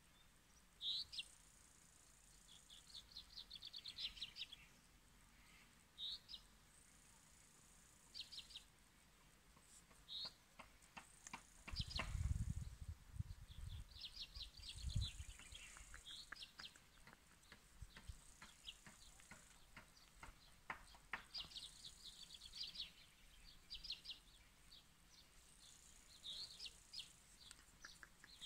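Birds chirping in short calls and quick trills, with a faint high hiss that comes and goes every few seconds. Brief low rumbles about twelve and fifteen seconds in.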